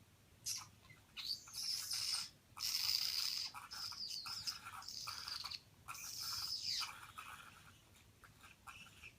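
Pet bird giving mating calls: a run of high chirping and warbling for several seconds, then fainter short chirps near the end.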